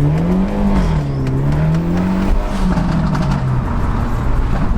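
Car engine revving: the revs climb, fall back, climb again and hold high before dropping off about three and a half seconds in.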